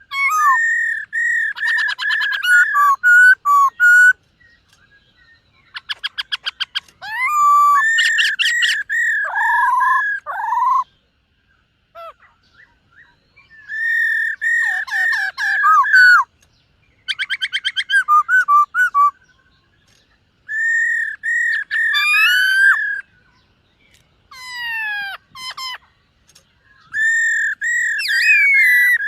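Black-throated laughingthrush singing in phrases of two to four seconds with short pauses between them. The phrases are clear whistled notes with bends and glides, mixed with fast runs of rapidly repeated notes.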